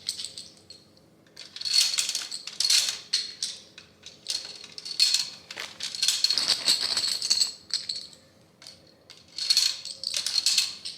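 Plastic Connect 4 discs clattering and rattling in several bursts, with short pauses between.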